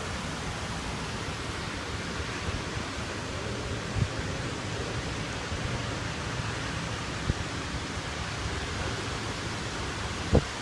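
Rain falling steadily, an even hiss, with three short low thuds about four, seven and ten seconds in, the last the loudest.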